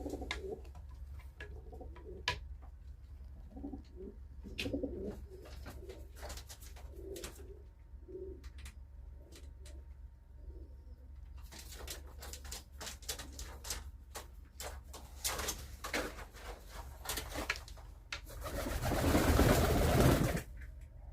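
Domestic pigeons cooing, with repeated low coos in the first half, among scattered clicks and scuffles. Near the end comes a loud rush of noise lasting about two seconds.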